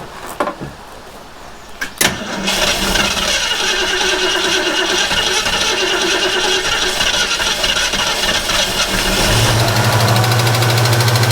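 1967 Ford Mustang engine being started: a few clicks, then the engine turns over for several seconds and settles into a louder, steady running drone about nine seconds in.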